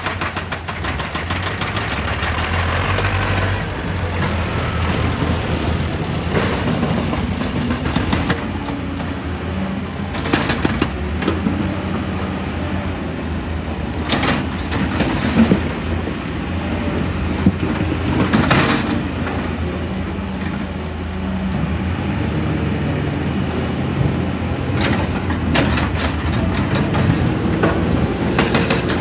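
Excavator diesel engine running steadily, with scattered sharp knocks and clanks.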